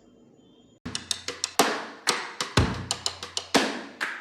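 Background music: after a brief hush, a drum-kit beat starts under a second in, sharp hits with deep bass-drum thumps.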